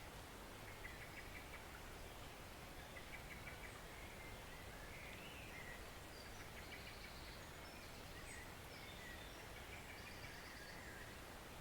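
Small forest stream flowing steadily and faintly, with birds singing short repeated trilled phrases over it.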